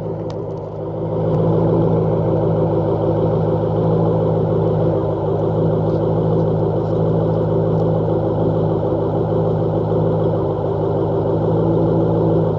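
2008 Ford Mustang GT's 4.6-litre V8 idling steadily through high-flow catalytic converters and an X-pipe with the mufflers deleted.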